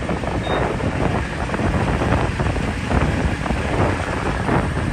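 Wind buffeting the microphone over a steady low vehicle rumble, with one short high beep from the fuel pump keypad about half a second in.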